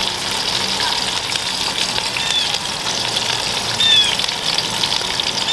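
Sliced potatoes, onions and bell peppers sizzling and crackling in hot oil in a wok as a wooden spoon stirs them. Twice, about two and four seconds in, a short high falling call sounds over the sizzle.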